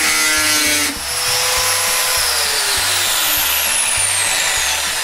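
Small high-speed power tool motor whining while cutting into steel saw-blade stock, then switched off: its whine falls steadily in pitch as it spins down. Light country background music plays underneath.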